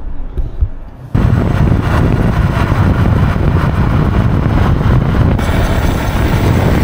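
Motorcycle on the move, its engine and road and wind noise close on a bike-mounted camera. The sound jumps suddenly from a quieter rumble to a loud, steady rush about a second in.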